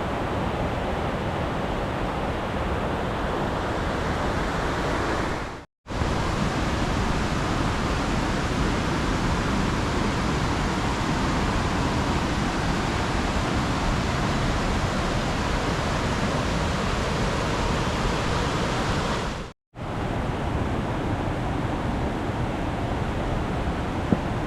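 Rushing water of a mountain stream falling through a limestone gorge, a steady noise without pitch. It cuts out for a moment twice, about six seconds in and again near twenty seconds in.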